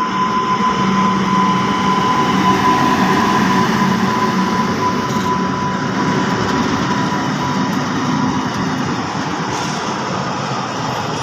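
Train running past close by: a steady loud rumble and rush of wheels on rails, with a thin steady whine that fades out past the middle.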